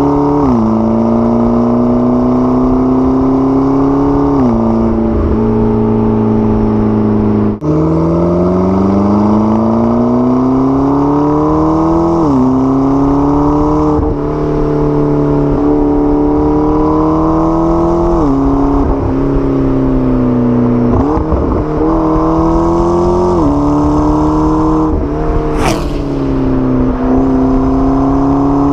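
McLaren 12C twin-turbo V8 pulling through the gears. The engine note climbs steadily, then drops at each shift, about seven shifts in all. There is a brief break about a quarter of the way in and a short sharp noise near the end.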